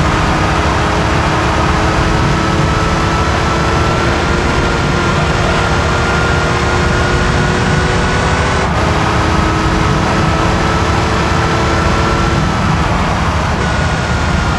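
Air-cooled flat-six of a Porsche 911 (964) under way at speed, its engine note climbing slowly over heavy wind and tyre noise, then dropping suddenly about nine seconds in.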